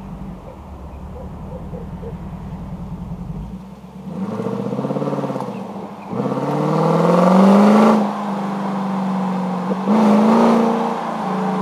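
Lexus RC F's 5.0-litre V8 through its stock exhaust, revved while stationary. It runs as a low, pulsing rumble, then is blipped three times, the middle rev about a second and a half long and the loudest, each time dropping back to a steady idle.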